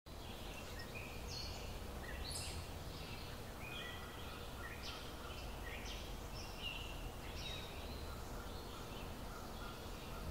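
Birds chirping and calling, many short calls scattered throughout, over a low steady outdoor rumble.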